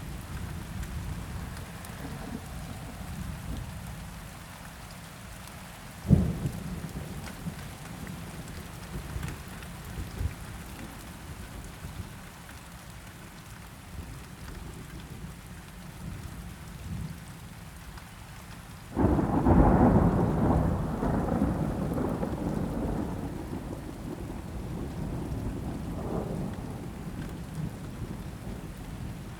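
Steady rain falling, with thunder: a sharp clap about six seconds in, then a long rolling rumble about two-thirds of the way through that fades slowly.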